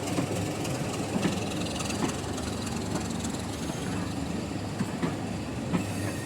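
Diesel-hauled train running along the line: a steady low engine drone with wheels clicking over rail joints every second or so.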